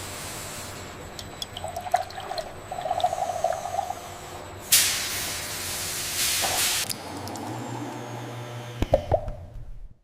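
Liquid gurgling and splashing, with a loud hissing rush of spray about five seconds in and a few drips near the end.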